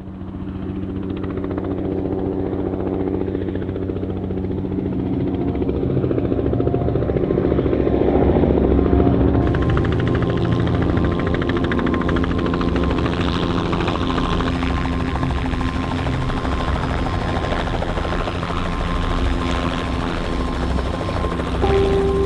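Helicopter turbine and rotor running, the blades' fast, even chop over a steady whine. It grows louder over the first several seconds, then holds steady.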